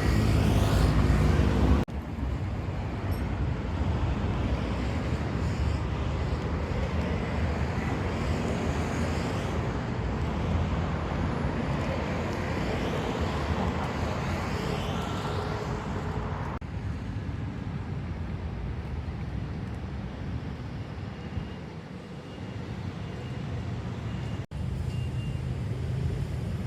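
Steady city traffic rumble from the surrounding roads, with a vehicle engine hum in the first couple of seconds. The background changes abruptly about two seconds in, again near two-thirds of the way through, and drops out for an instant near the end.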